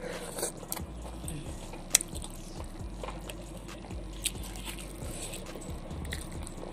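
A person chewing a mouthful of spicy food close to the microphone, with many short crunchy clicks and one sharper click about two seconds in.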